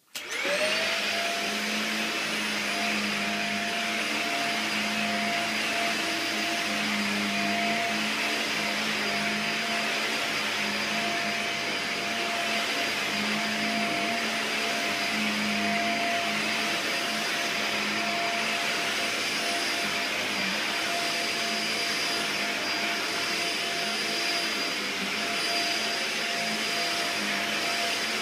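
Dyson DC50 Animal upright vacuum cleaner switched on, its motor spinning up within half a second to a steady whine, then running at an even level while going over carpet.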